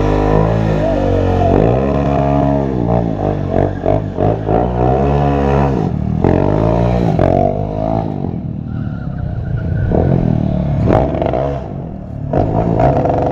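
Stunt motorcycle engine revved hard, its pitch rising and falling again and again, with a few sharp cracks in the second half.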